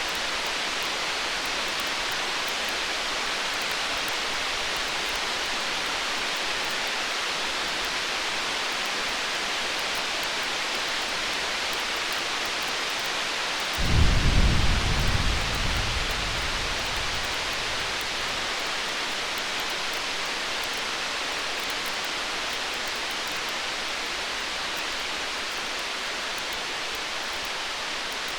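A roll of distant thunder about halfway through: a low rumble that starts suddenly and dies away over about four seconds. Under it runs a steady hiss with faint high crackles.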